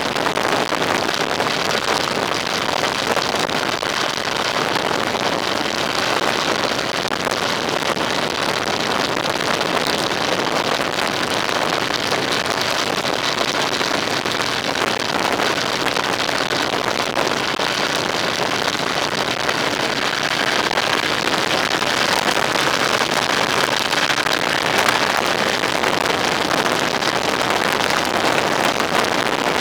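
Steady rush of wind and road noise from a moving vehicle, with wind buffeting the microphone and no distinct engine note; it grows a little louder about two-thirds of the way through.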